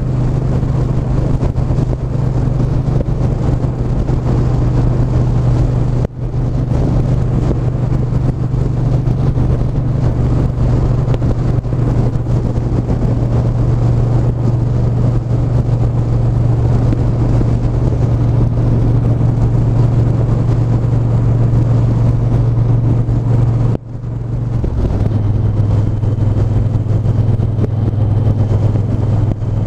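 Triumph 1200 cc parallel-twin motorcycle engine running steadily under way, with road and wind noise. The note briefly cuts about six seconds in and again near the end, settling lower after the second break, as with gear shifts.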